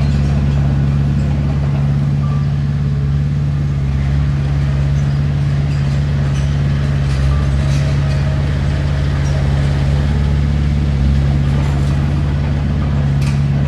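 Heavy diesel engine of earthmoving machinery running with a steady, unchanging low drone.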